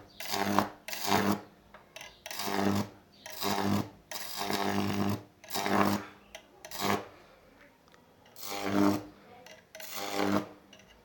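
High-voltage arc on a microwave-oven-transformer Jacob's ladder, buzzing and crackling in repeated bursts about half a second to a second long, each arc struck by hand and then breaking off. There is a short lull about seven seconds in.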